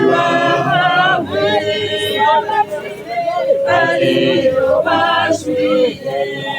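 A group of mourners singing together in several voices, with long held notes that rise and fall together.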